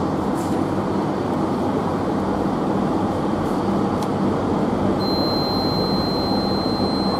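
LRT Jabodebek light-rail train running along the track, heard from inside the driver's cab as a steady rumble of wheels and running gear. About five seconds in, a steady high-pitched electronic tone starts and holds.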